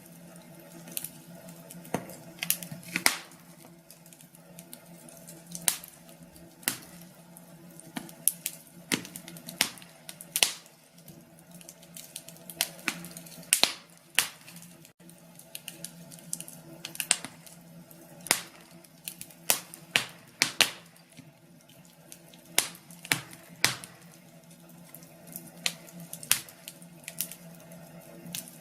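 Fireplace fire crackling: irregular sharp pops and snaps, several a second at times, over a faint steady low hum.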